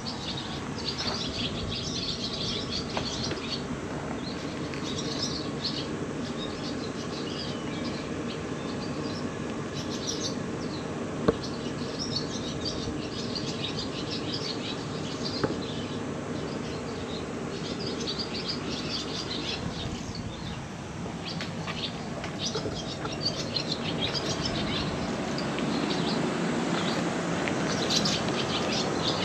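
Small birds chirping in quick clusters again and again, over a steady low hum.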